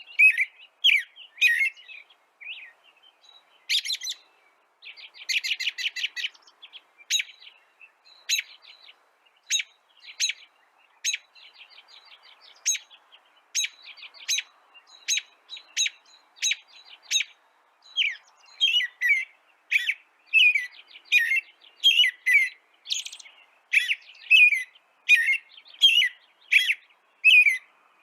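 Songbirds chirping: short, sharp calls with quick trills, then a run of repeated down-slurred notes, about two a second, from about eighteen seconds in.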